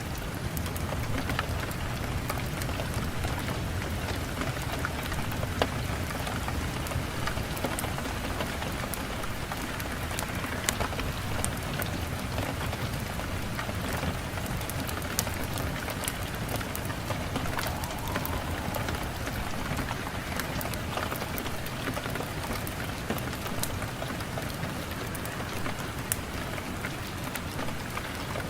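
Steady rain falling, an even hiss at a constant level, with many scattered sharp clicks of individual drops.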